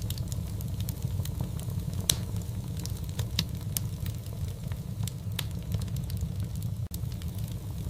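Fire in a fireplace crackling over a steady low rumble, with scattered sharp pops, a few of them louder than the rest.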